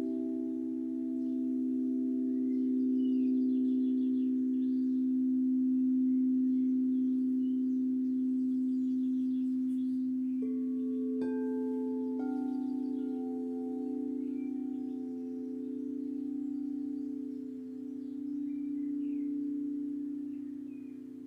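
Singing bowls ringing with long, steady overlapping tones, fresh strikes coming in about halfway through and setting off new notes. Faint bird chirps sound in the background.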